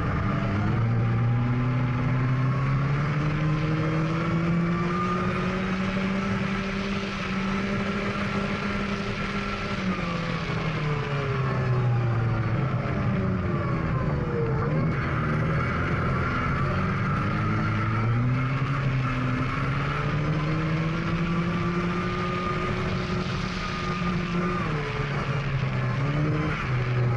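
GAZ Volga rally car's engine running hard, heard from on board over a steady rush of tyre and road noise. The revs climb slowly, fall off about ten seconds in, climb again and drop near the end.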